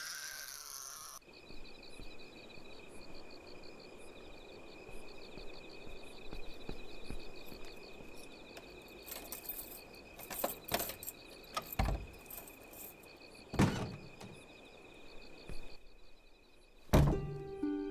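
Insects chirping steadily, likely crickets, after a baby's crying cuts off about a second in. Several sharp knocks come in the second half, with a loud thump near the end.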